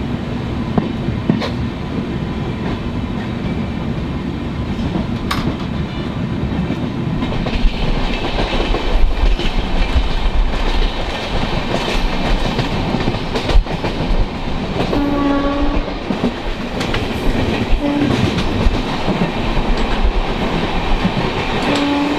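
Passenger train running on the rails as heard at an open window: a dense rumble and clatter with sharp wheel knocks, growing louder about a third of the way in as it gathers speed. A train horn sounds for about a second two-thirds of the way in, with short blasts again a few seconds later and at the very end.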